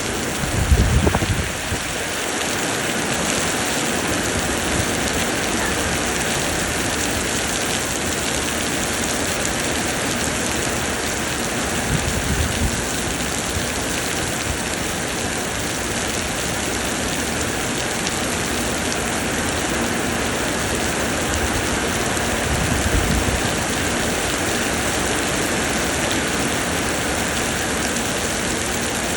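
Heavy summer rain pouring steadily, a dense even hiss of drops. Three brief low rumbles break through it: about a second in, around the middle, and about three-quarters of the way through.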